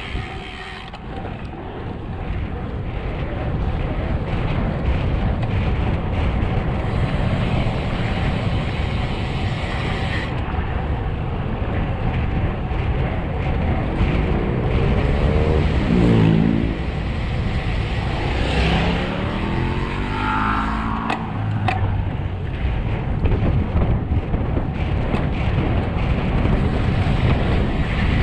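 Wind rushing over the microphone and tyre noise from a road bike descending at speed. About halfway through, motor vehicles pass, their engine notes falling in pitch as they go by.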